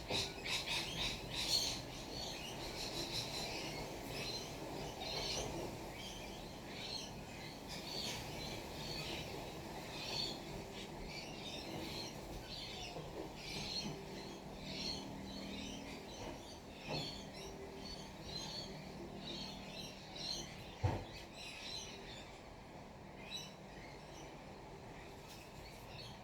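Small birds chirping with short, rapidly repeated calls, overlapping throughout, and a single sharp thump about three-quarters of the way through.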